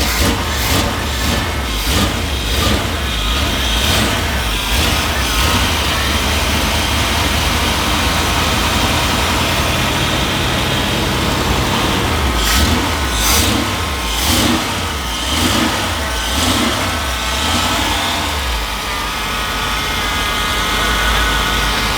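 1978 Jeep truck's engine running just after being fired up on a newly fitted electric fuel pump, after years of sitting. It is revved in short bursts during the first few seconds and again around the middle, and otherwise runs steadily.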